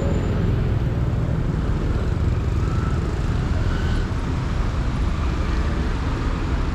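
Steady city street traffic, a continuous low rumble of passing cars and engines, with faint distant voices.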